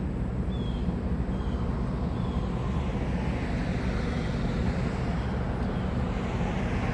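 Steady low rumble of vehicle engine noise, with three faint short high chirps in the first half.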